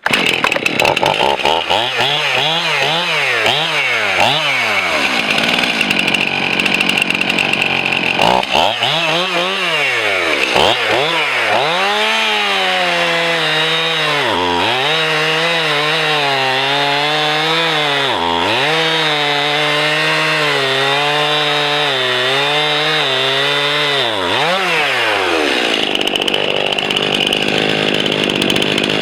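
Stihl MS 291 two-stroke chainsaw cutting into a log to free a bar pinched in the cut. It revs up and down in short bursts at first, then is held at high speed under load, dipping sharply twice. Near the end the engine note drops away.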